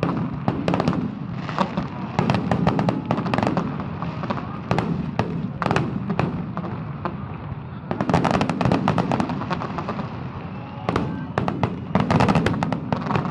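Fireworks going off in a rapid, irregular run of bangs and crackles over a low rumble, with thick clusters of reports about two seconds in, around eight seconds in and again near the end.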